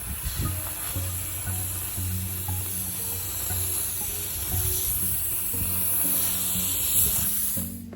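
A steady, high air hiss from dryer vent cleaning equipment working the vent run, over background music with a bass line. The hiss cuts off suddenly near the end, while the music carries on.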